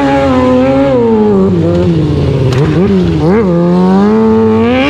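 Hot rod engine revving hard, its pitch slowly sagging, then two quick throttle blips near the middle before it climbs again near the end.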